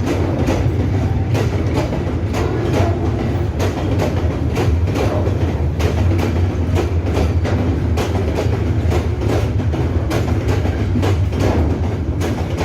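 Freight ore train rolling past at close range, a steady low rumble with wheels clicking rapidly and unevenly over the rail joints.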